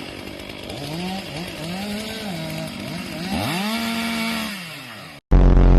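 Chainsaw running with the throttle worked up and down, its pitch rising and falling, then held high at full revs for about a second before dropping back. After a brief dropout, a sudden, very loud low blast fills the last half second.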